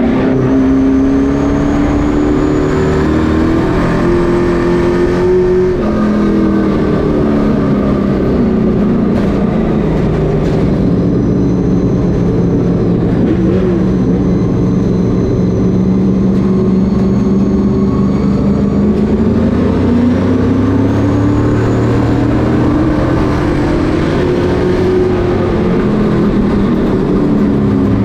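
Several Pro Truck race truck engines running at once on a short oval. Their pitch rises and falls as they accelerate and lift through the laps.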